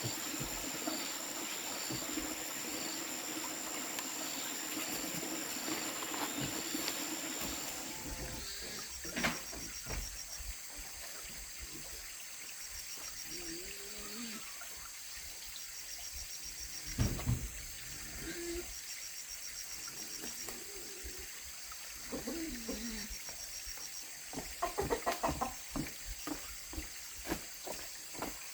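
Running water under outdoor ambience with a steady high whine. About a third of the way in the ambience turns quieter, leaving a faint rapid high chirping, a few short low calls, and a run of knocks and rustles near the end.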